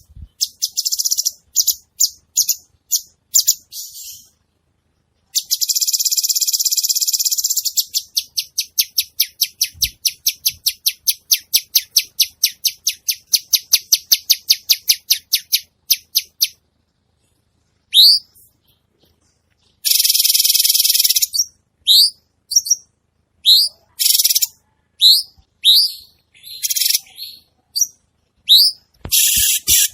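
Cucak cungkok singing vigorously: bursts of quick chattering, a long buzzy rattle, then a run of short repeated notes about three a second. After a pause there are sharp rising notes and a second buzzy rattle.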